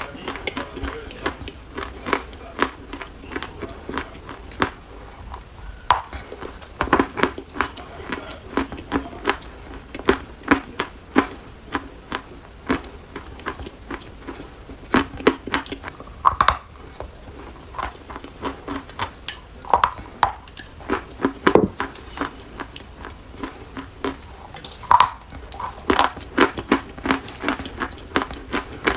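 Dry chalk being bitten and chewed: many sharp, irregular crunches, several a second, with a few louder bites.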